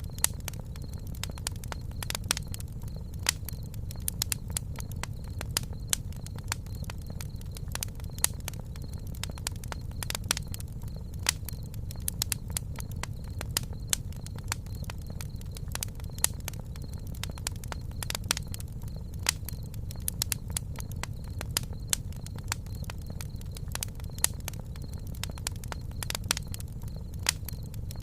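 Campfire burning: a steady low rumble of flame under frequent, irregular sharp crackles and pops of burning wood, with a faint steady high tone behind it.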